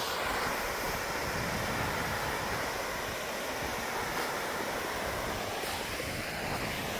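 Steady rushing noise that holds at an even level throughout.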